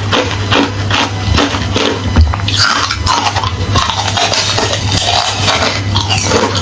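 Hollow refrozen ice being bitten and chewed close to the microphone: a fast, irregular run of sharp crunches and crackles, with brief squeaky glides as pieces grind, over a steady low hum.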